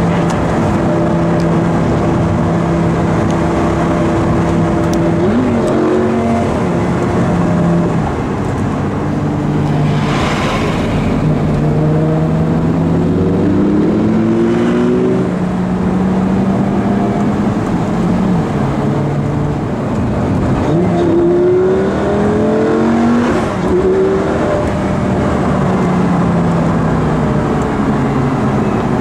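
Lamborghini Gallardo's V10 engine heard from inside the cabin, cruising and then accelerating hard several times. Its pitch climbs through the gears and drops at each gear change.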